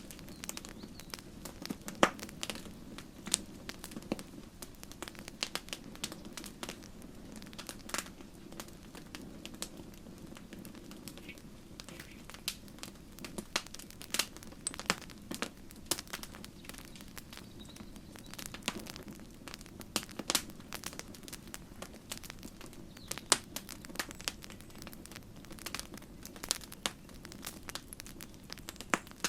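Campfire crackling: wood burning with irregular sharp pops and snaps, several a second and some louder than others, over a steady low rush of the flames.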